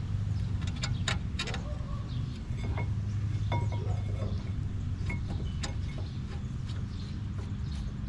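Hand tools and steel brake parts clinking now and then, a few sharp metallic clicks with brief ringing, over a steady low hum.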